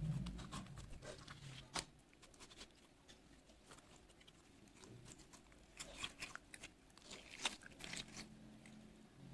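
Glitter slime being squeezed and stretched by hand, giving faint, irregular little clicks and crackles, busiest near the end.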